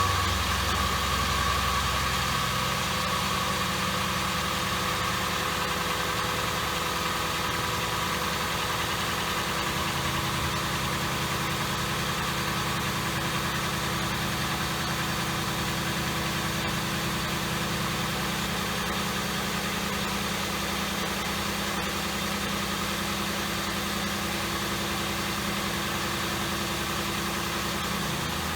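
2007 Ford Crown Victoria's 4.6-litre V8 idling steadily just after starting, its new spark plug fitted to cure a misfire. The idle eases down slightly over the first few seconds, then holds even.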